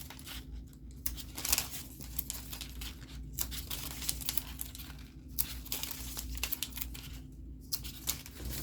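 Paper crinkling and rustling in quick irregular crackles as printed kit sheets are handled, with brief pauses about 1, 3, 5 and 7 seconds in.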